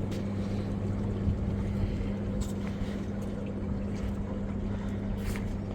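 A motor running with a steady low hum, with a few short clicks over it.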